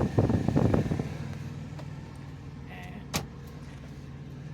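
Rustling handling noise for about the first second, then a steady low hum inside a truck cab, with one sharp click about three seconds in.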